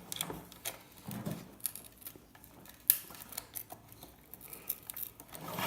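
Scattered clicks and scrapes of a metal hand tool levering and cutting at a stubborn IC chip on a circuit board, with one sharp snap about three seconds in.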